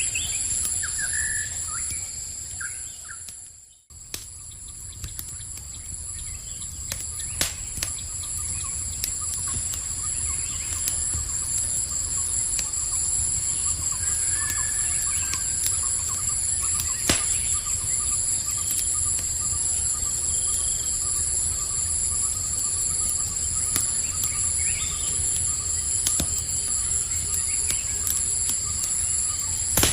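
Night-time campfire ambience: crickets trilling steadily, with occasional bird chirps and sparse crackling pops from the fire. The whole mix fades almost to silence about four seconds in, then returns.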